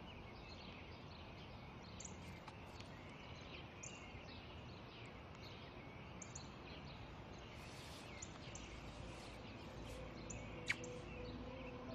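Quiet outdoor ambience: small birds chirping again and again over a faint steady hiss, with one sharp click near the end.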